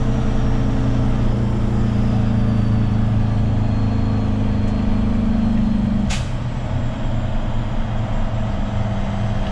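Heavy diesel truck engine running steadily while driving, heard from the cab. About six seconds in there is a short sharp hiss of air, and the engine note drops right after it.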